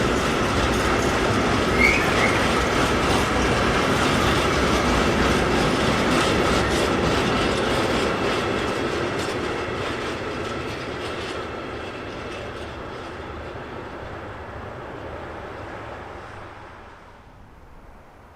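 A train rolling past, its wheels clattering over the rail joints, with one short wheel squeak about two seconds in. The sound fades steadily from about halfway through and drops off sharply near the end as the last wagons pass.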